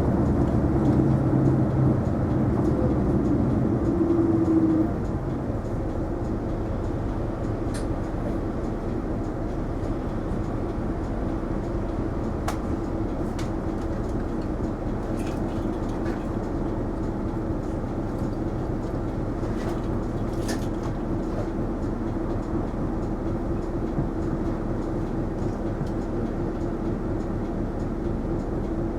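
Isuzu Erga non-step city bus running, heard from inside the cabin: engine and drivetrain louder for about the first five seconds, then dropping to a steady lower running noise. A few faint clicks come through along the way.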